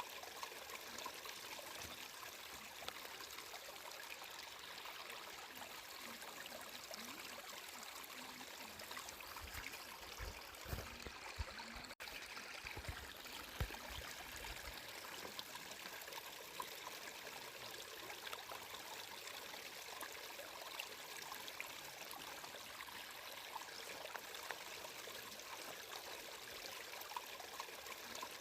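Water flowing steadily, like a small stream trickling over stones, with a few dull low thumps around the middle.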